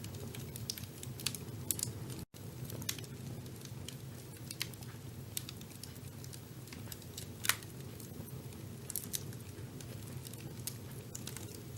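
Fire burning in a fireplace: a steady low rumble of flame with scattered sharp crackles and pops, the loudest pop about two-thirds of the way through. The sound cuts out for an instant a little over two seconds in.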